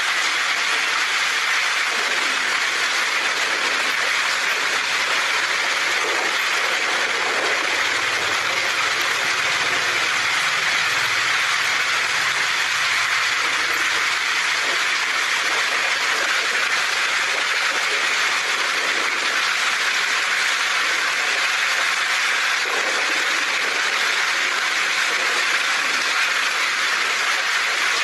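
Heavy rain falling steadily on a tin roof, an even, unbroken patter. A faint low rumble, like distant thunder, comes through near the middle.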